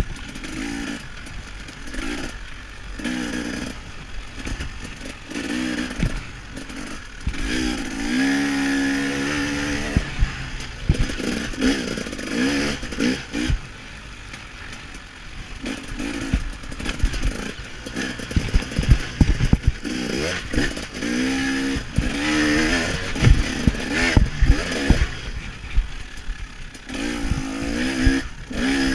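KTM 300 XC-W two-stroke dirt bike engine revving up and dropping off again and again under racing throttle. Frequent clattering knocks come from the bike over rough ground.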